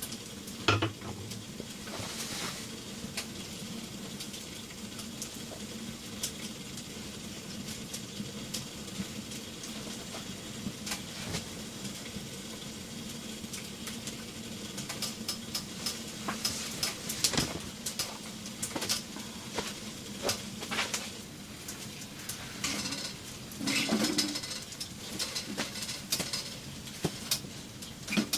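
Food sizzling as it fries in a pan, with metal utensils clinking and knocking against the pan as it is stirred.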